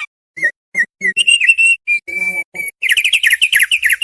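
Thick-billed white-eye (opior paruh tebal) singing: a quick string of short whistled notes, breaking about three seconds in into a fast trill of rapidly repeated down-slurred notes.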